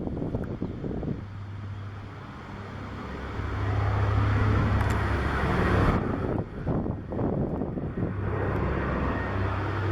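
The twin radial engines of a Consolidated PBY Catalina flying past, a steady low drone that grows louder about three seconds in. Wind buffets the microphone near the start and again around six to eight seconds.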